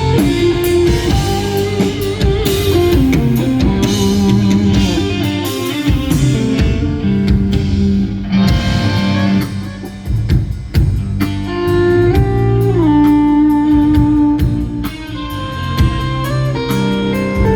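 Live rock band playing an instrumental ballad: an electric lead guitar carries the melody in long sustained notes, several bent or slid in pitch, over bass and drums.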